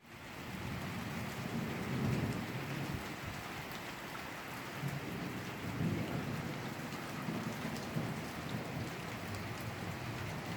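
Steady rain falling during a thunderstorm, with low rolling rumbles of thunder that swell about two seconds in and again around six to seven seconds in.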